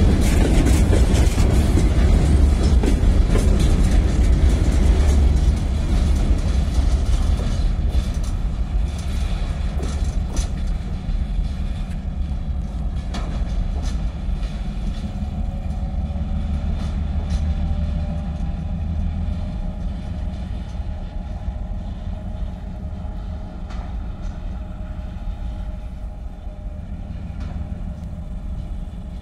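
Freight train of open-top wagons rolling slowly past, the wheels rumbling and clacking over rail joints. The sound fades steadily as the last wagon goes by and the train moves away.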